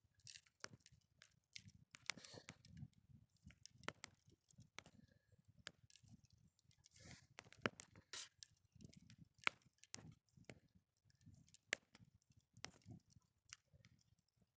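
Wood campfire crackling: irregular sharp pops and snaps, some louder than others, over a soft low rumble of the burning fire.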